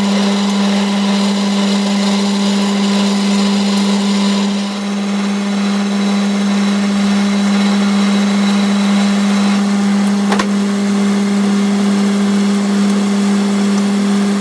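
An electric machine running steadily with a constant low hum and a hiss of work over it, and a single sharp click about ten seconds in.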